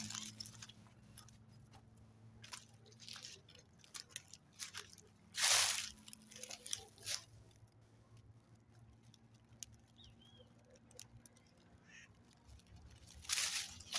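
Campfire crackling in irregular pops and snaps, with three short rushes of noise, the longest about five and a half seconds in, over a low steady hum.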